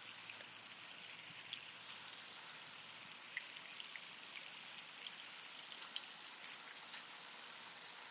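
Faint, steady rush of a waterfall's falling water, with scattered small ticks and clicks over it.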